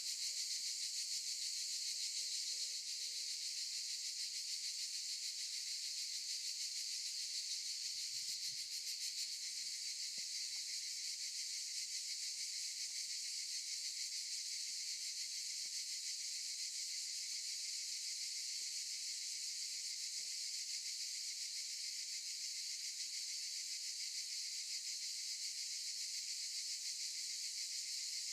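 Cicadas singing in a steady, dense high-pitched buzzing chorus.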